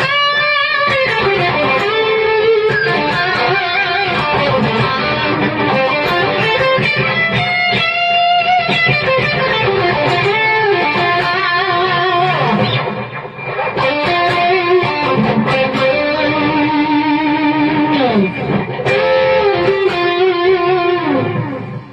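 Electric guitar played through a multi-effects pedal with distortion: a lead line of single notes with string bends and vibrato, with a brief dip in the playing about halfway through. It stops suddenly at the end.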